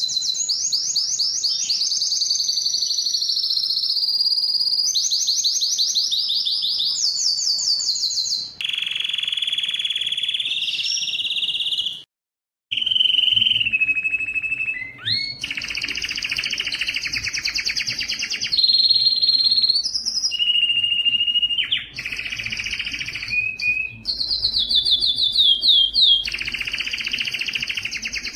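Spanish timbrado canary singing a continuous song of fast trills and rolls, each run of rapidly repeated notes switching to a new pattern every second or two, some higher and some lower in pitch. About twelve seconds in the song cuts out for a moment, and when it returns a faint low hum lies under it.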